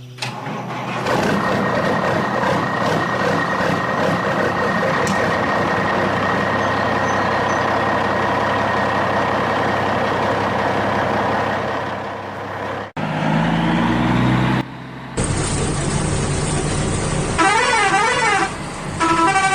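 Sound effects of a truck running steadily with a held horn tone, which cut off sharply about two-thirds of the way through. Short rising tones and more engine noise follow, then a warbling siren near the end.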